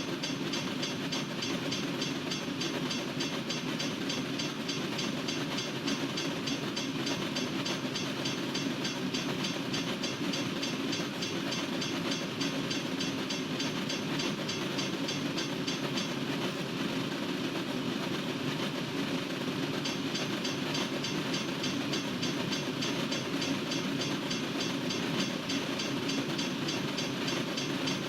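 Freight cars of a long Norfolk Southern train rolling past steadily, a continuous rumble of wheels on rail.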